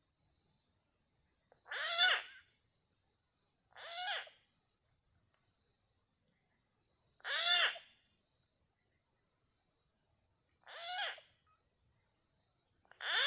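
An animal calling in the open: five short pitched calls, each arching up and down, about every three seconds and alternately louder and softer, over a steady high buzz of insects.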